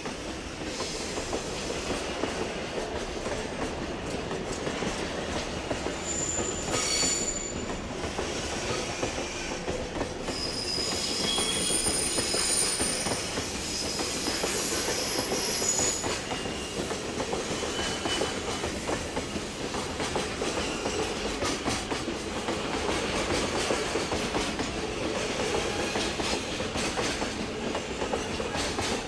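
Container freight train hauled by an EF510 electric locomotive rolling past, its wheels clattering rhythmically over the rail joints under a steady rumble. High, thin wheel squeals rise briefly about seven seconds in and again from about eleven to sixteen seconds.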